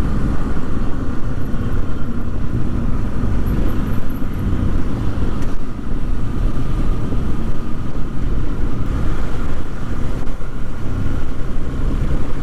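Motorcycle engine running steadily at riding speed, with heavy wind rumble on the microphone.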